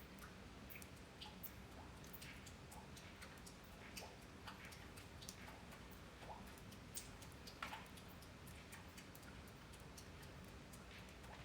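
Faint, irregular ticking of scattered raindrops dripping, a few ticks a second over a low steady hum; no thunder.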